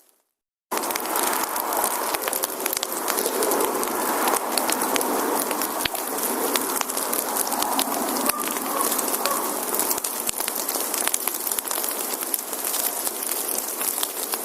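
Wood fire burning, crackling and popping with many sharp snaps over a steady hiss. It begins abruptly after a brief moment of silence at the start.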